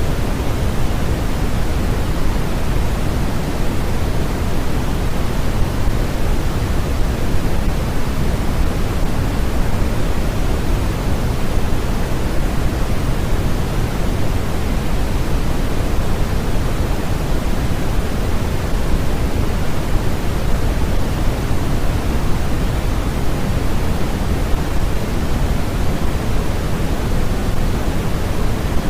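Steady, unbroken generated noise, a full even hiss that is heavier in the low end than in the highs, closer to pink noise than true white noise.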